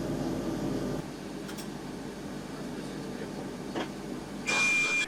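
Steady drone of a Ka-27PS helicopter, changing abruptly about a second in. Near the end comes a short, louder burst of hiss with a steady high beep in it.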